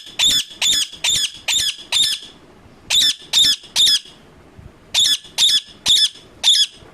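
Indian ringneck parakeet screeching loudly in a run of evenly spaced calls, about two a second, breaking off twice briefly and starting again.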